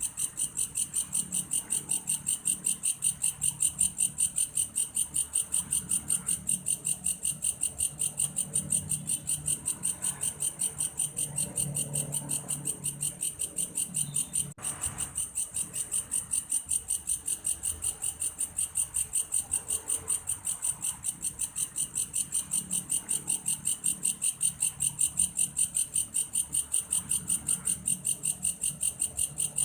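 Belalang kayu (a large tree-dwelling grasshopper) calling: a high-pitched, cricket-like chirring in an even, rapid pulse of about five strokes a second, with a faint low murmur underneath and a brief break about halfway.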